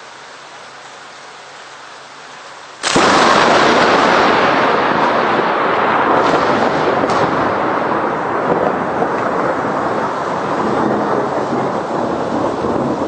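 Steady rain, then about three seconds in a sudden, very loud thunderclap that goes on as a long rolling rumble, slowly fading, with two sharper cracks a few seconds after the first strike.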